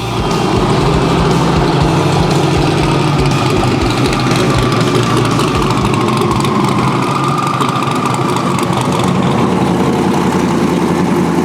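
Drag car engine running steadily at low revs, a loud, even rumble with no big rev changes.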